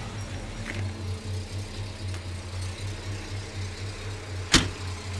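Oldsmobile Rocket 455 V8 idling through a new dual exhaust, a steady low pulsing burble. One sharp click or knock sounds about four and a half seconds in.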